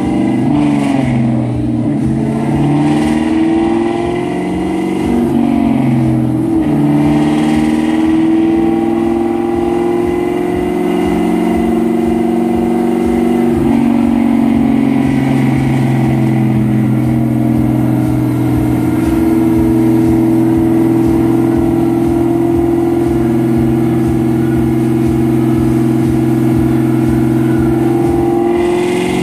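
2002 Mustang GT's naturally aspirated 4.6-litre two-valve V8 running loud on a chassis dyno. Over the first seven seconds or so the engine pitch rises and falls a few times, then it holds a steady engine speed for the rest.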